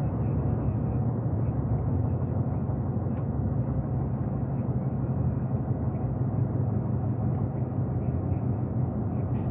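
Steady engine and road noise of a truck, heard from inside the cab while driving, an even low drone with no change.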